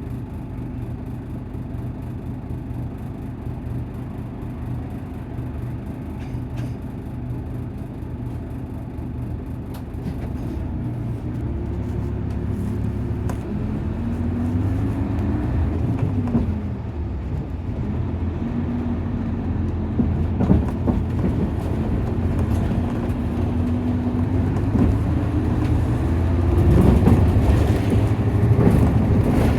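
Nissan Diesel KC-UA460LSN city bus's diesel engine heard from inside the cabin. It hums steadily at first, then about ten seconds in the bus pulls away and the engine note rises and drops back several times as it works through the gears. It climbs again near the end.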